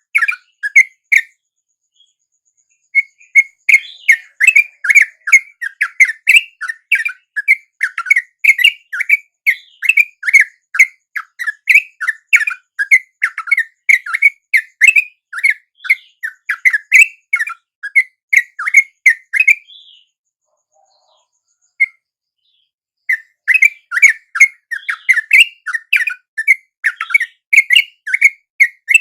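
Yellow-vented bulbuls (trucuk) calling: a fast run of bubbly, chattering whistled notes, several a second. The calls pause briefly about two seconds in and again for a few seconds about two-thirds of the way through.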